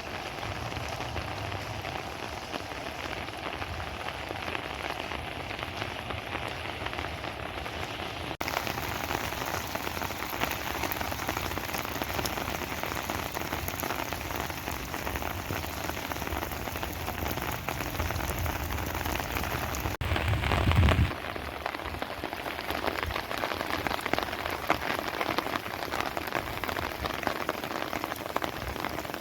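Steady rain falling and splashing on surfaces, with a dense patter. The sound changes abruptly twice, about eight and twenty seconds in, and just after the second change comes a brief louder low rumble.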